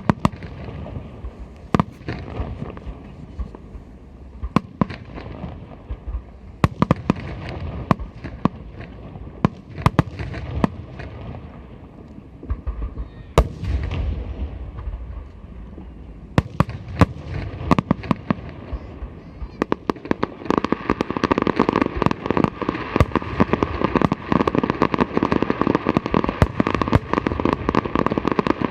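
Aerial fireworks display: shells bursting in frequent sharp bangs, then from about two-thirds of the way through a dense, continuous crackling of many small bursts.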